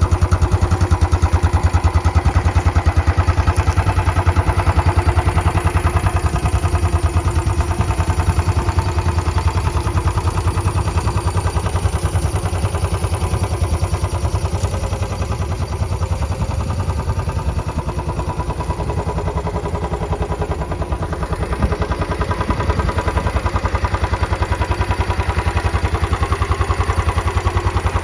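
Royal Enfield Bullet Trials 500's air-cooled single-cylinder engine idling with a steady, even beat.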